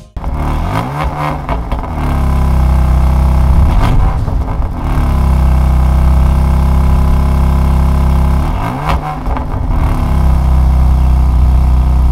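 BMW M2 CS's twin-turbo 3.0-litre inline-six running loud through its exhaust. The engine climbs in pitch over the first couple of seconds and settles into a steady idle, then is blipped twice, about four and nine seconds in.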